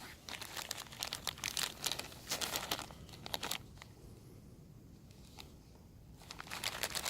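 Rustling and crinkling in quick, irregular bursts for the first three and a half seconds, then again briefly near the end.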